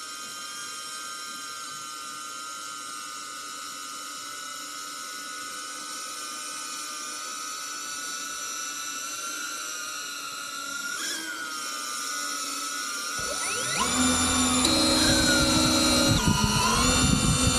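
DJI Avata 2 FPV drone's motors and propellers spinning with a steady high whine. About thirteen seconds in, the sound gets louder and the pitches climb and shift as the throttle goes up.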